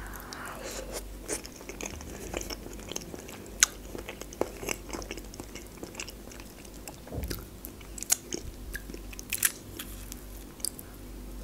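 Close-miked chewing of baked mussels: soft, wet mouth sounds with many small, irregular clicks.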